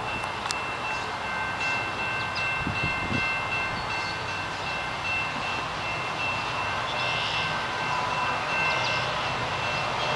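A freight train led by diesel locomotives passes, with engine rumble and rail noise. Several steady high-pitched tones are held throughout.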